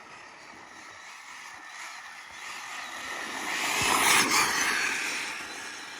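RC drift car passing close at high speed: its motor whine and tyre noise swell to a peak about four seconds in, then fade as it goes away.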